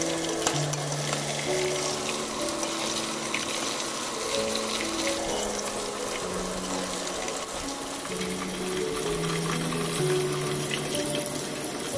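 Battered prawns deep-frying in hot oil, a steady hiss with many small crackles, stirred with a metal slotted spoon. Background music with held notes plays underneath.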